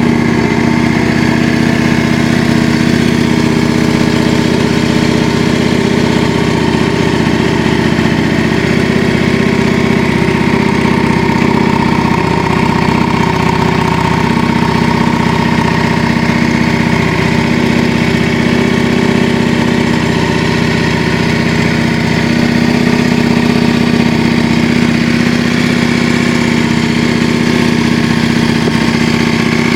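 Yamaha Drag Star 400's air-cooled V-twin engine idling steadily through a custom aftermarket muffler, with no revving.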